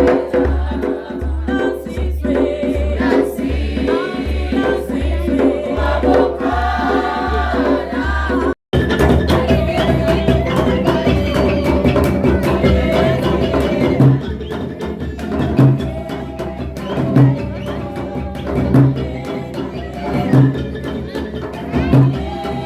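Group singing of traditional Swazi songs with drums. After a brief break about eight and a half seconds in, the voices go on over a steady drum beat of about one stroke every second and a half.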